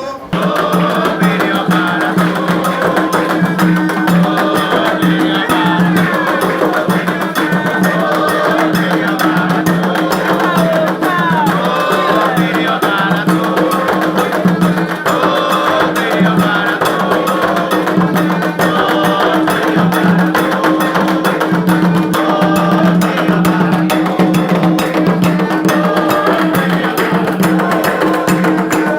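Candomblé ritual music: fast, continuous percussion of drums and a clacking wood-block or bell pattern, with voices singing over it.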